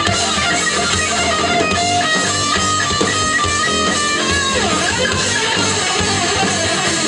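A band playing rock music: an electric guitar lead of held notes, sliding down about four and a half seconds in, over bass and drums.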